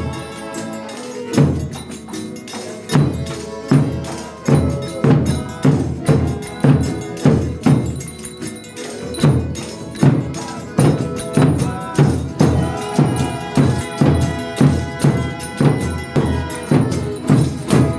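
Folia de Reis music: a drum keeping a steady beat with tambourine jingling, under long held notes from the instruments or singers.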